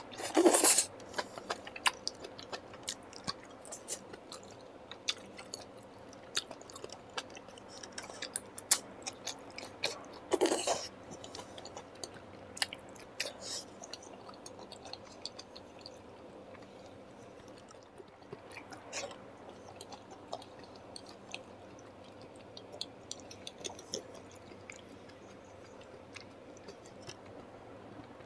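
Close-miked eating: a person chewing food, with many small wet clicks and smacks. Two louder, longer mouth sounds come about half a second in and about ten seconds in.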